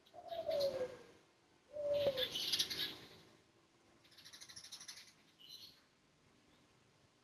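Spotted dove (tekukur) cooing: two short low coo notes in the first two seconds, the first sliding slightly down in pitch. Higher chirps of smaller birds sound with them and again about four to five seconds in.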